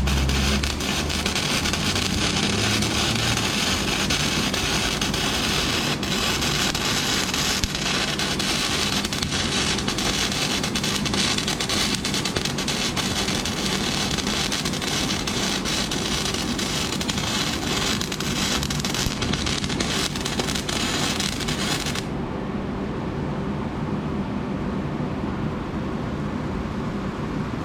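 Flux-cored wire-feed arc welding: a steady, dense crackle and sizzle of the arc. About three-quarters of the way through, the high sizzle cuts out abruptly, leaving a duller, lower noise.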